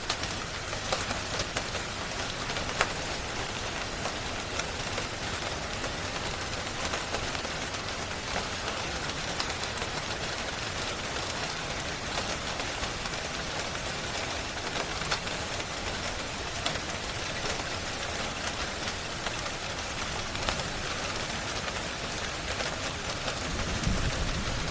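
Steady rain with scattered sharp crackles from a wood fire mixed in. A low rumble swells briefly near the end.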